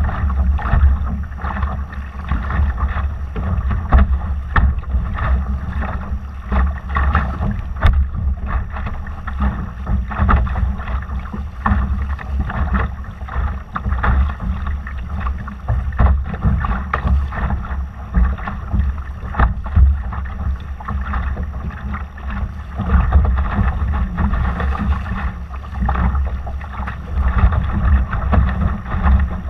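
Wind buffeting the microphone in a heavy, gusting rumble, with water splashing and rushing along a Laser dinghy's hull under sail.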